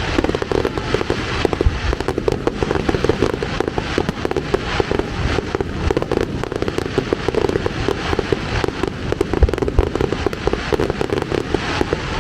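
Fireworks display going off: a dense, continuous run of rapid bangs and crackles.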